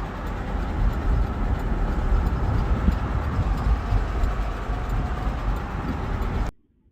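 GMC Yukon XL's 5.3-litre V8 running under way with a rod knock, a dense low clatter from a worn connecting-rod bearing. It cuts off suddenly near the end.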